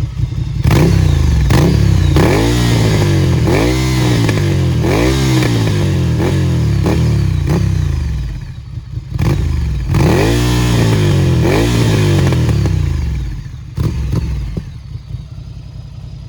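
Ducati Monster 797's air-cooled V-twin with a Termignoni exhaust, revved in repeated throttle blips about once a second, with sharp pops and cracks from the exhaust. It drops back to a lower, quieter running near the end.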